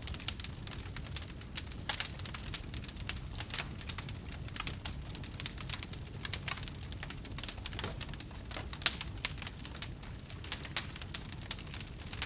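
Wood bonfire crackling: dense, irregular pops and snaps over a low, steady rumble of burning, with one sharper pop about nine seconds in.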